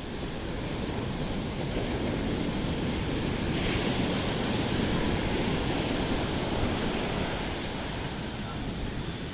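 Sea waves breaking and washing up the beach: a steady rush that swells to a peak midway and eases off, with wind rumbling on the microphone.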